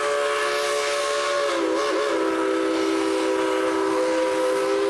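A steam locomotive's chime whistle sounding one long blast, several tones together as a chord over a hiss of steam, with a brief wavering in pitch about two seconds in.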